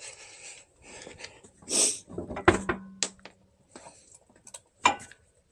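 Scattered metallic clinks and knocks of lug nuts, tools and a wheel being handled. A short airy rush comes near two seconds in, then a sharp knock that rings on briefly.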